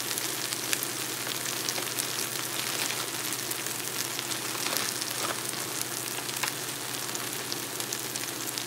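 Chopped onions, peppers and other vegetables frying in hot oil in a pot: a steady sizzle with fine crackling.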